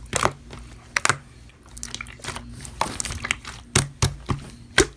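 Slime being squeezed and kneaded by hand, giving irregular sharp clicking pops and crackles, over a faint steady low hum.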